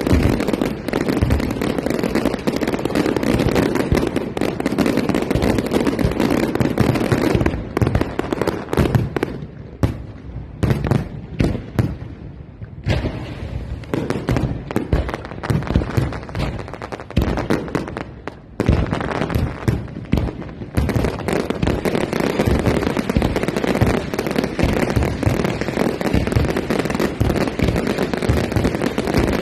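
Fireworks display: a dense barrage of bangs and crackling that thins to scattered single bangs for a few seconds in the middle, then builds back into a dense barrage.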